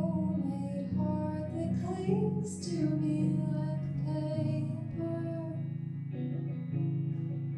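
A singer-songwriter's song performed live: a voice singing over guitar accompaniment.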